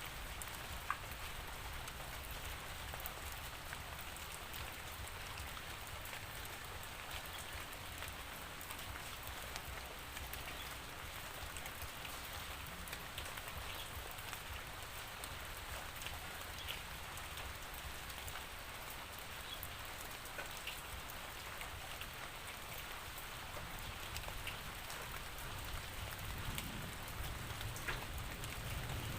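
Steady rainfall, with many small drops ticking on a surface over an even hiss and a low rumble underneath.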